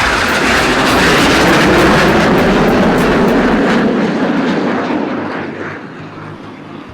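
BAE Hawk jet trainers flying past low and loud, the jet roar sliding down in pitch as they pass and fading away over the last couple of seconds.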